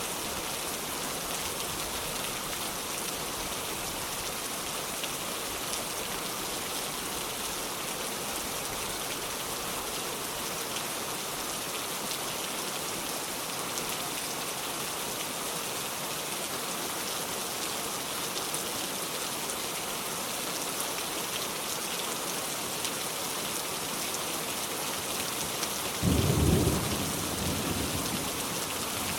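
Heavy rain falling as a steady, even hiss. Near the end a sudden loud clap of thunder breaks in and rumbles away over a couple of seconds.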